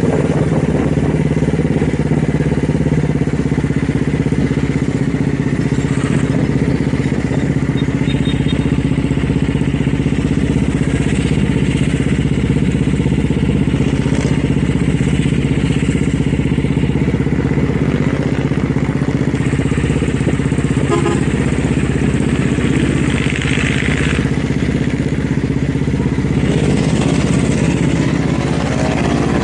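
Motorcycle engine idling steadily, its exhaust note holding an even pitch throughout.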